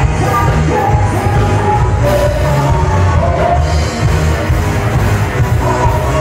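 Live band playing loud music, a singer's voice over a heavy bass and drum beat.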